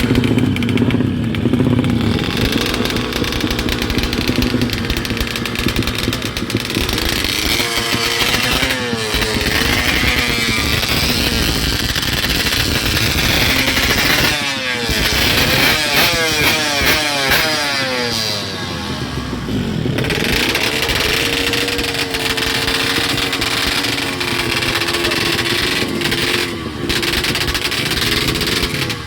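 Honda Karisma single-cylinder motorcycle engine running and being revved, its pitch climbing and falling again and again through the middle. Later it settles to a steadier speed.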